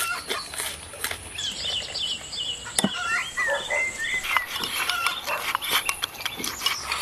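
Repeated short bird-like chirps over many quick clicks and taps.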